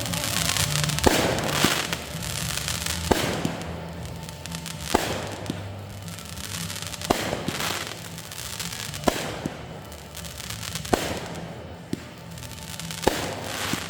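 Fireworks display: aerial shells bursting about every two seconds, each sharp bang followed by a noisy tail that fades away. Music plays underneath.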